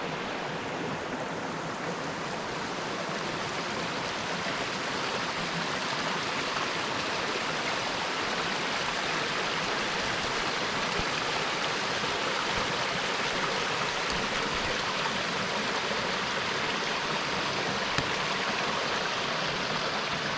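Holland Creek's water rushing in a steady, unbroken noise, growing slightly louder over the first few seconds.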